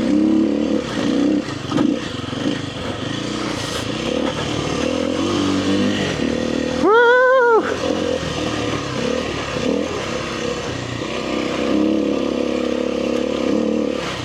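Kawasaki KLX300R dirt bike's single-cylinder four-stroke engine running at low gear on a trail, its note wavering with the throttle. About halfway through there is a short, loud tone that rises and falls.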